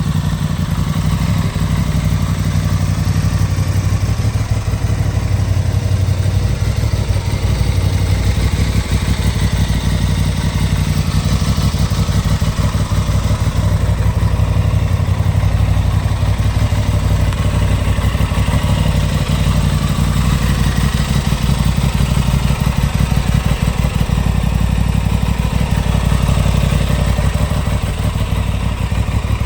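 Aprilia Tuono 660's parallel-twin engine idling steadily.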